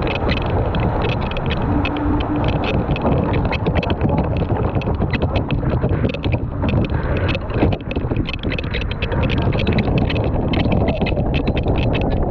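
Wind buffeting the microphone and water rushing along the hull of an RS800 racing dinghy under way, with many short slaps and ticks of spray and wavelets throughout.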